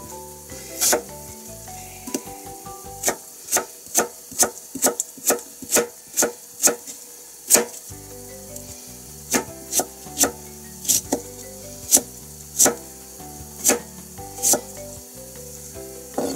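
Kitchen knife chopping daikon radish on a plastic cutting board: a run of sharp knocks, coming about two or three a second in the middle, more spaced out before and after.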